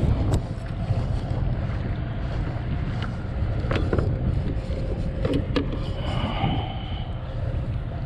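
Wind buffeting the microphone on a kayak at sea, a steady low rumble, with a few sharp knocks about midway.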